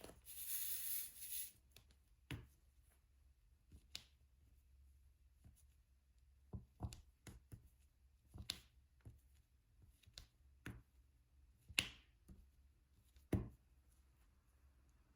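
Diamond-painting pen picking up and pressing resin drills onto the adhesive canvas: scattered small clicks and taps at irregular intervals, with a brief rustle right at the start.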